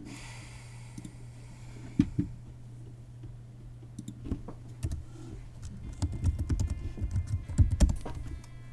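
Typing on a computer keyboard: a few scattered key clicks, then a quick run of keystrokes in the last few seconds, over a steady low electrical hum.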